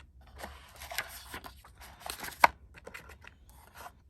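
Product packaging being handled: irregular rustling and light clicks, with one sharp click about two and a half seconds in.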